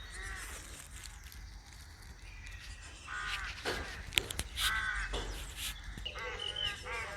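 Crows cawing: a few separate caws, then a quicker run of calls near the end, with a few short sharp clicks between them.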